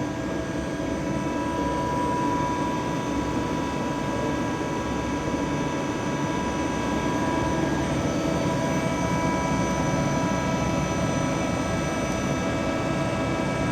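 CNC lathe running a machining cycle: a steady motor hum with several steady whining tones from the spindle and axis drives, a higher tone joining about nine seconds in.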